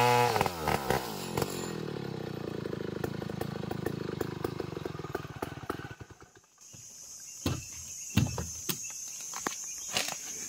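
Sawmill machine's engine dropping from its cutting pitch and running down, dying out about six seconds in. After that come scattered sharp knocks and a steady high whine.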